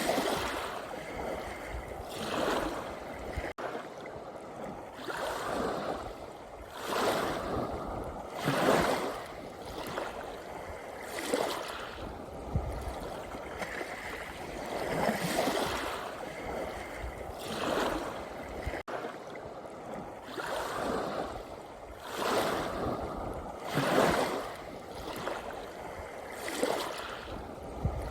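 Small sea waves lapping and washing in, in repeated short rushes of surf about every two seconds.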